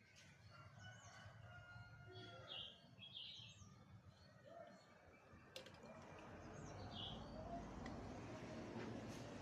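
Faint quiet ambience with a few short, high bird chirps in the background, a cluster about two to three seconds in and another near seven seconds.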